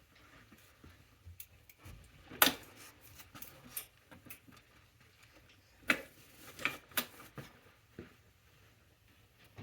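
Scattered clicks and clinks of small tools and parts being handled and set down: one sharp click about two and a half seconds in, and a cluster of several more around six to seven seconds in.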